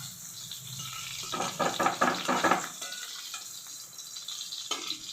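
Chicken pieces sizzling as they shallow-fry in a little hot oil in a kadai, with a run of scrapes and clicks from a spatula lifting pieces out, about a second and a half in and again near the end.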